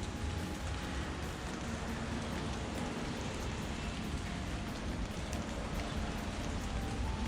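Steady rain falling, an even patter of drops with a low rumble underneath.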